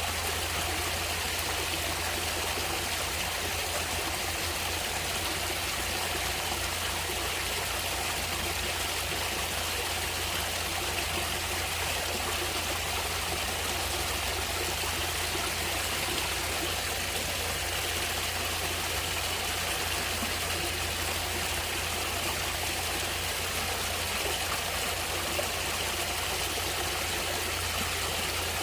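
Stream water flowing and trickling steadily, an even rushing with no breaks or changes.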